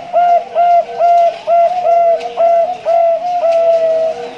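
Male zebra dove (Bangkok-strain perkutut) cooing: a fast run of short notes, about two a second, ending in a longer held note near the end.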